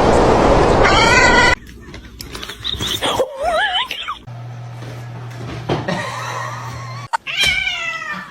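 Cats yowling and meowing: a loud rush of noise with a rising wail in the first second and a half, a wavering yowl around three seconds in, and a falling meow near the end, with a low steady hum in between.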